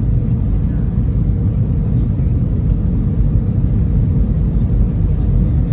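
Steady low rumble of engine and airflow noise inside the passenger cabin of an Airbus A320 airliner in flight, on descent toward landing.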